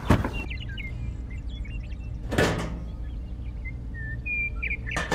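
Birds chirping sparsely in the background over a steady low hum, with a short swish or soft knock near the start, another about halfway and one near the end.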